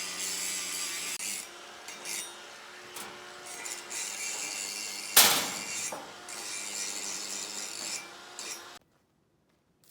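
Hand-tool work on metal: stretches of rasping, scraping strokes with short pauses, and one sharp loud knock about five seconds in. The work stops suddenly near the end.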